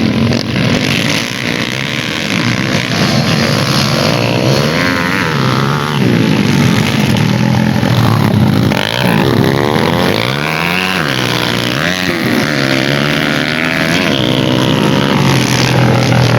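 Several dirt-bike engines revving, their pitch rising and falling again and again as they overlap.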